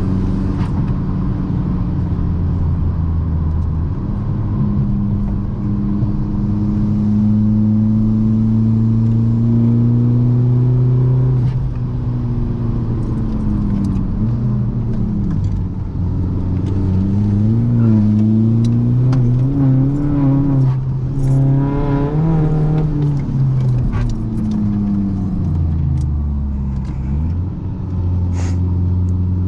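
A VW MK6 Golf GTD's 2.0-litre common-rail TDI diesel, fitted with an upgraded turbo and a deleted, custom stainless exhaust, running while driving. The engine note climbs steadily, drops about eleven seconds in, then rises and falls several more times, sinking low briefly near the end before picking up again.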